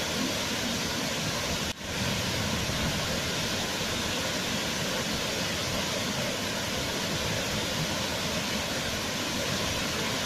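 Waterfall: a steady rush of falling water, with a brief drop in level about two seconds in.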